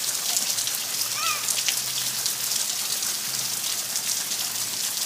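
Steady rain falling: an even hiss dotted with the patter of drops. A faint brief call sounds about a second in.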